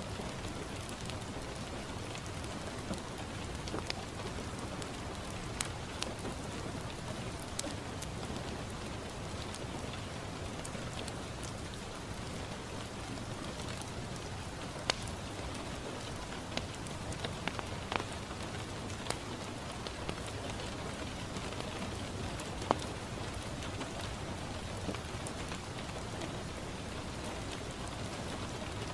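Steady rain on a window, a constant hiss, mixed with a crackling wood fire that gives scattered sharp pops and clicks.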